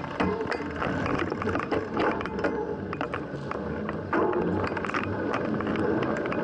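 Mountain bike being ridden over rough ground: many quick rattles and clicks over steady tyre and wind noise.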